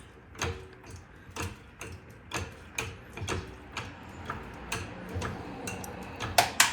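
A jack being worked under a Honda Pioneer 700-4 side-by-side to lift it, clicking evenly about twice a second. Near the end come two louder sharp cracks, which the man takes to be the wooden block under the jack.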